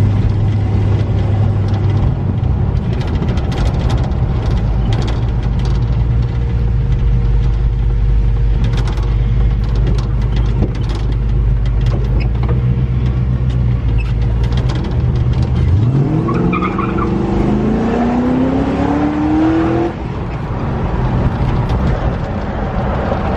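Road vehicle engine running steadily while driving, then accelerating, its pitch rising for about four seconds before it drops back, as at a gear change.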